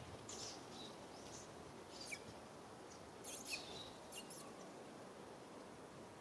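Faint short, high bird chirps scattered through a few seconds, busiest a little past the middle, over a steady outdoor background hiss.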